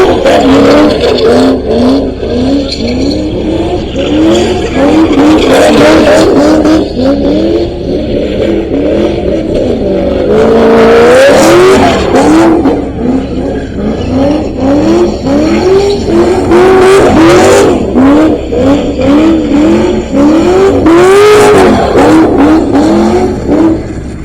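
A car engine revving up and falling back over and over, about once a second, with tyres squealing, as in a burnout at a street takeover. There is a longer, higher rev about ten seconds in.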